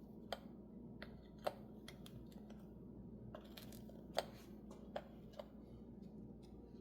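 Scattered light clicks and taps from handling the parts and buttons of an espresso machine, the sharpest about a second and a half in and again past four seconds, over a faint steady hum.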